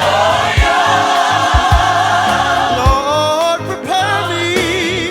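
Gospel worship song with voices holding long, wavering notes over the band, and a low drum thump every second or so.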